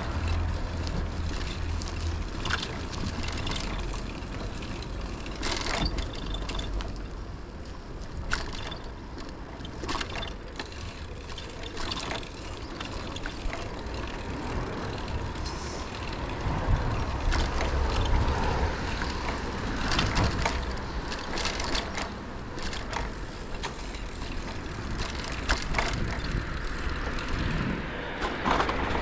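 Bicycle ride: wind rumbling unevenly on the microphone, with scattered short knocks and rattles from the bike over the road surface.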